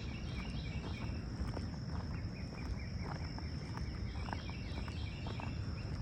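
Footsteps on a trail path, with a steady high insect trill over them and runs of short, quickly repeated chirps at the start and again near the end, over a constant low rumble.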